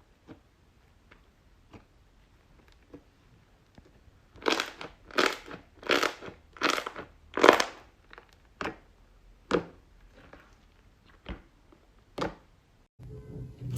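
Crunchy slime being pressed and squeezed by hand. Faint small clicks and crackles at first, then about five loud crunches in quick succession, roughly one every two-thirds of a second, then a few scattered softer crunches.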